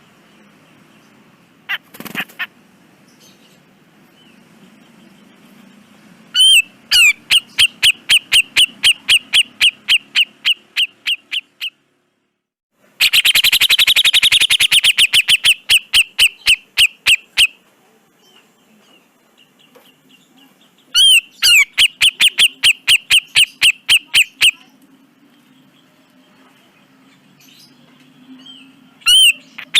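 Cucak jenggot bulbul calling in harsh, rapid bursts: runs of repeated notes at about five a second, in three long bouts and a short one near the end, with a single sharp call shortly after the start.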